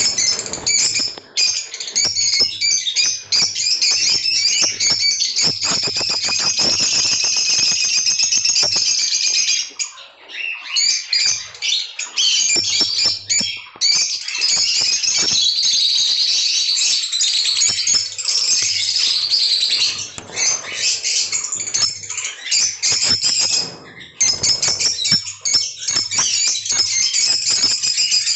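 Many lovebirds chattering and squawking together in a constant high-pitched din, with short breaks about ten seconds in and again near the end.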